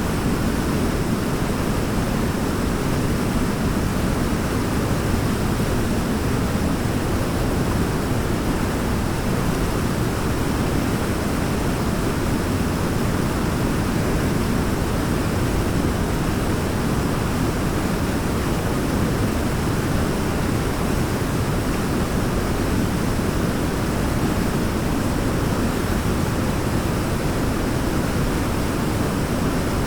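Waterfall: a steady, unbroken rush of falling water, deep and strongest in the low end.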